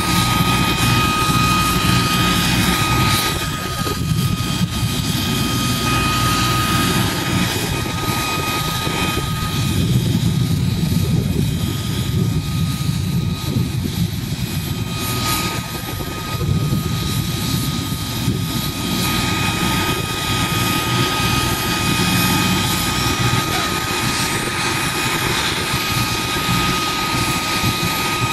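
CH-47 Chinook tandem-rotor helicopter running, with its twin turboshaft engines giving a steady high-pitched whine over dense rotor noise.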